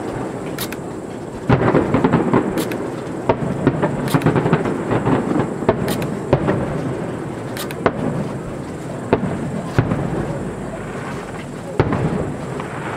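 Fireworks display: aerial shells bursting with about ten sharp bangs at uneven intervals of one to two seconds, over a continuous rumble of further explosions.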